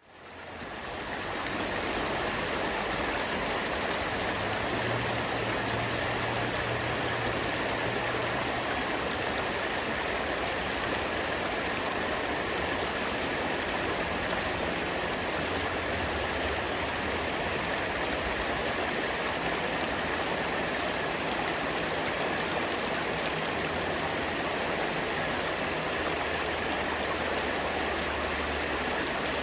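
A gentle river stream flowing steadily, fading in over the first second or two.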